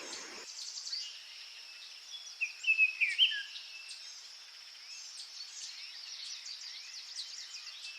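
Small birds chirping in short quick bursts, loudest a few seconds in, over a steady high insect buzz like crickets.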